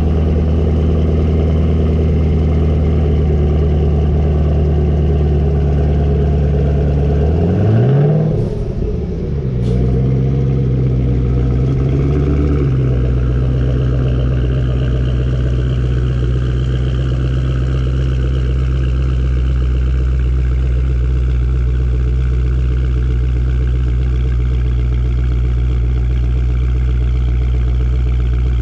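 Supercharged 6.2-litre V8 of a Lingenfelter-modified 2013 Chevrolet Camaro ZL1 idling just after a cold start. It gives one short rev about eight seconds in, then settles to a lower, steady idle from about thirteen seconds in.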